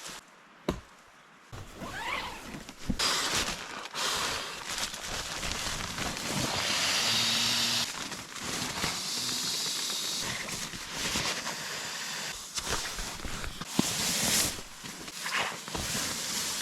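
Tent fabric crinkling and rustling as a tent is unpacked and pitched, with scattered sharp clicks and knocks.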